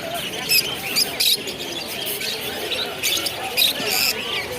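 Many caged birds squawking and chirping at once, with short, shrill calls repeating throughout, over the chatter of a crowd.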